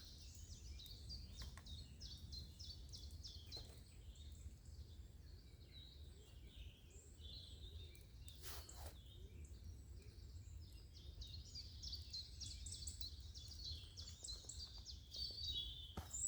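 Small birds chirping and singing, faint and continuous, busier in the last few seconds, over a low steady rumble. A brief rustle about halfway through.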